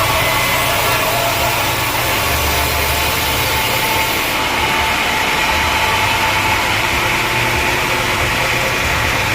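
Sawmill machinery running steadily: a loud, even mechanical noise with a high hiss that eases slightly about four seconds in.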